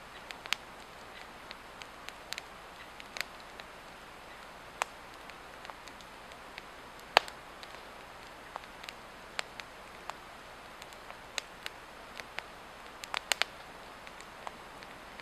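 Swedish torch log fire burning, crackling with irregular sharp pops over a steady hiss; the loudest pop comes about seven seconds in, with a quick cluster of pops near the end.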